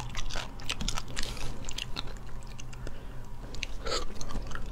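Close-miked mouth sounds of a person eating spicy braised small sea snails: chewing and lip smacks, with many small wet clicks.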